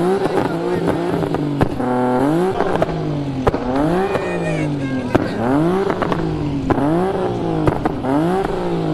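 Car engine being revved hard over and over, its pitch climbing and dropping about once a second as the driver works the throttle through a spin, with sharp cracks scattered through.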